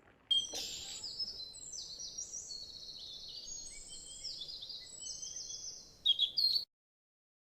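Birds singing: many quick high chirps and short falling trills overlapping one another. The sound starts abruptly and cuts off suddenly about a second before the end.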